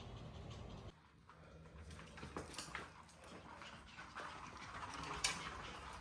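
Small pet dogs moving about, with faint breathing and scattered light clicks and scuffles.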